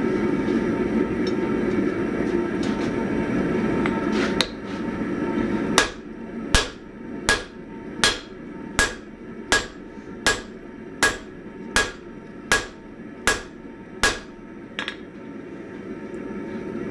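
Hammer blows on a hot 1045 steel axe blank on an anvil, forging out the axe head. First a single strike, then a steady run of about a dozen ringing blows, a little more than one a second. A steady rushing noise fills the pauses at the start and near the end.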